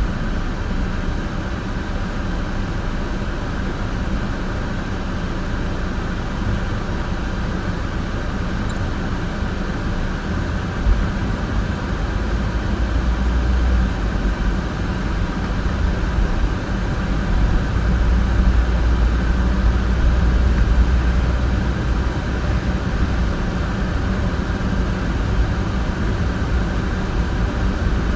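A car driving, with steady engine and road noise. The low rumble grows louder about a third of the way in and eases off again later.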